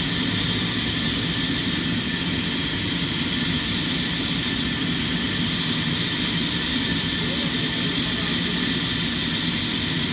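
Sawmill machinery running with a steady, unbroken mechanical drone and a high hiss, with no change in pitch or level.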